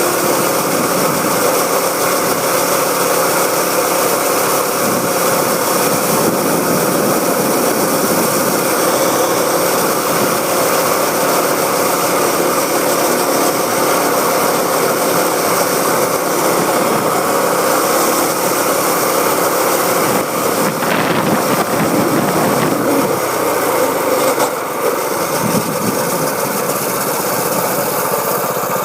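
Small dirt bike engine running steadily at high revs, with the revs dropping and climbing again about three-quarters of the way through.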